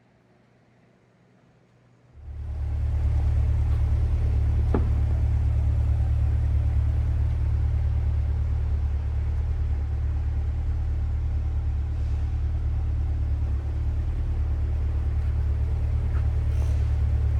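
2020 Chevrolet Corvette's 6.2-litre V8 running steadily with a low rumble, coming in suddenly about two seconds in after near silence.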